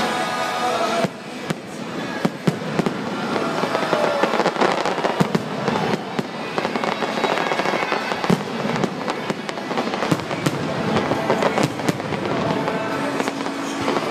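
Fireworks bursting in rapid, irregular bangs and crackles, with music playing underneath.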